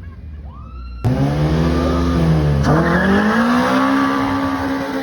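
Drag racing car accelerating hard down the strip. The engine comes in suddenly about a second in, its pitch climbing, dropping sharply once at a gear change, then climbing again.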